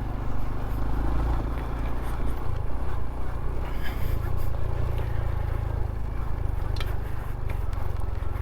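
Honda Trail CT125's single-cylinder engine running steadily while riding, with a strong low rumble.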